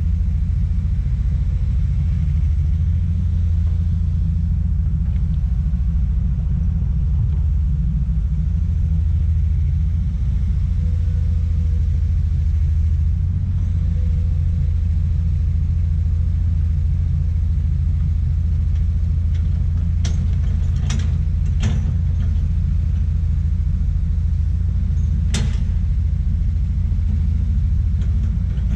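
Komatsu PC200 excavator's diesel engine running steadily with a deep, even rumble. A few sharp knocks come in the last third.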